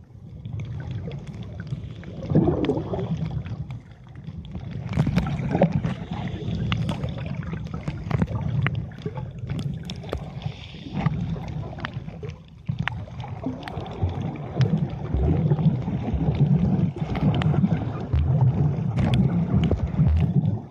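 Muffled underwater rumble of moving water against the camera, with scattered sharp clicks.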